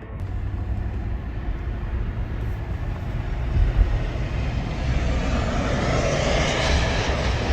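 Jet airliner engine noise: a steady low rumble with a rushing hiss that grows louder and brighter over the last few seconds.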